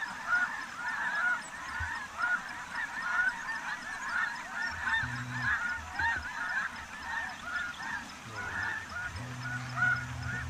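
A large flock of snow geese calling continuously, a dense chorus of short, overlapping honks.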